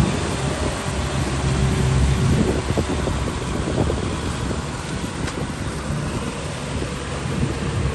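Tractor engine running steadily while working through deep mud, with a low, even hum throughout.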